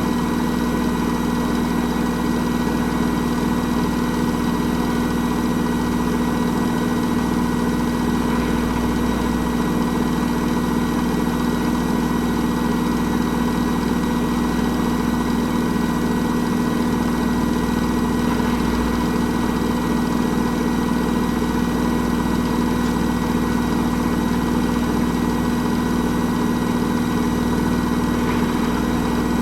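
Hoover H-Wash 300 Plus washing machine spinning at a steady speed, its motor giving a constant hum with a high whine over it.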